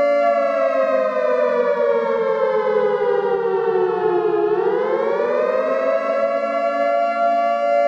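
Siren sounding a loud, steady tone built from two pitches. About halfway through, the pitch slowly sags, then climbs back and holds.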